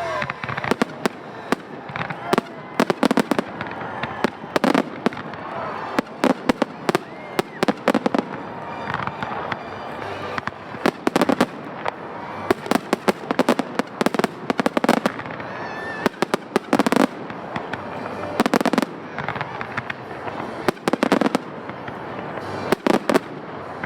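Fireworks display: aerial shells bursting throughout, many sharp bangs often in quick clusters of several, with crackling between them.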